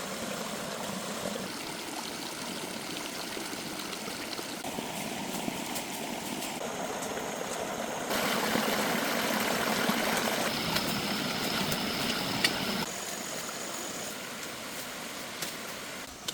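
Running water of a stream or small waterfall, a steady rushing that jumps in loudness several times (loudest for a few seconds past the middle), with a thin high steady tone over some stretches.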